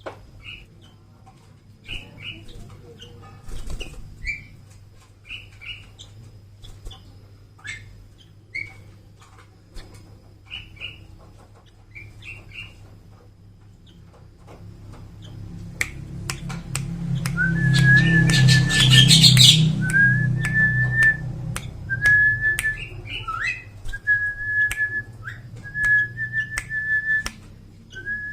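A young sooty-headed bulbul gives short, scattered chirps. Past the middle comes a loud, rustling burst of noise, followed by a steady whistled note held for about a second and repeated several times.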